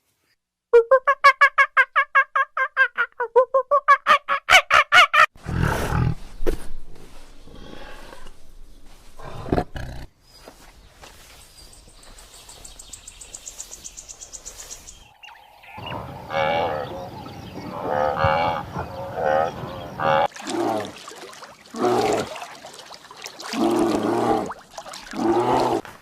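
Animal calls: a fast run of repeated pitched calls, then a string of separate calls in bursts.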